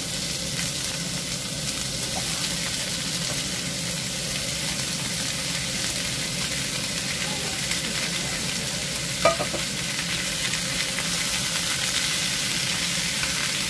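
Celery, onion and chicken wings sizzling in a nonstick frying pan while being stirred and moved with a wooden spatula: a steady frying hiss, with one sharp knock about nine seconds in.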